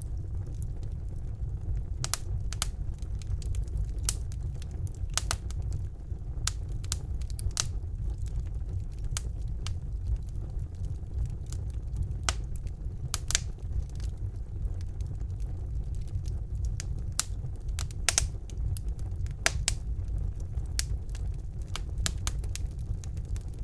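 Wood fire burning in a fireplace: a steady low rumble of the flames with irregular sharp crackles and pops throughout, a few louder pops around the middle.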